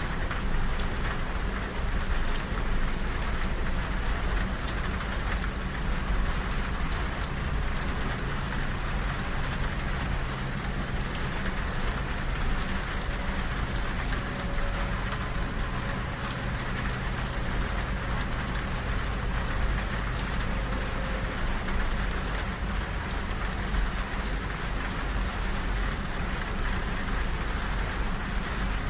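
Steady rain on a train window over the low, continuous rumble of the moving train.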